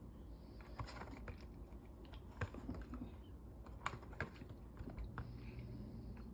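Scattered light clicks and taps from a plastic VHS case being handled, a few sharper ones among them.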